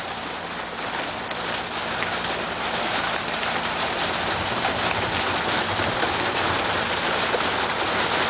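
Heavy rain mixed with hail pelting down in a dense hiss of many small impacts. It builds over the first few seconds and then holds steady and loud.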